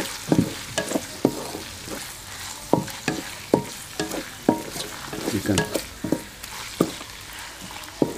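Minced chicken and chopped onion sizzling in hot oil in an aluminium karahi as a wooden spatula stirs it, knocking and scraping irregularly against the metal pan, about once or twice a second. The raw chicken has just gone into the softened onions and is starting to fry.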